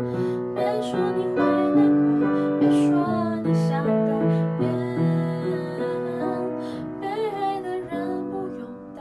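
Piano playing the closing bars of a slow pop ballad, notes held and changing about every half second, the level slowly falling toward the end.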